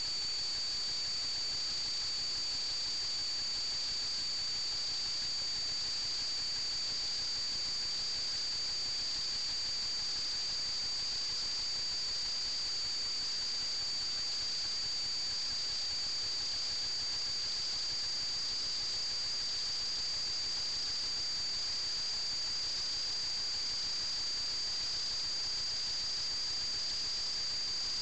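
Steady static hiss with a constant high-pitched whine that never changes in pitch or level, the empty audio channel of an analog FPV video link.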